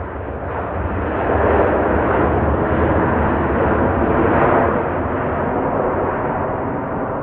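Boeing 777-200's twin turbofan engines, a loud rumbling jet noise. It swells about a second in and eases a little after the middle.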